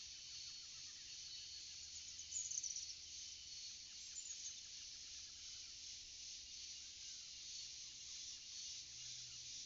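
Forest ambience: a steady, faint high chirring of insects, with a short high chirp about two and a half seconds in, a smaller one a little later, and faint brief calls near the end.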